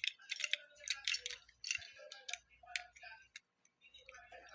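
Plastic Lego bricks clicking and rattling as they are handled, a rapid irregular run of sharp little clicks.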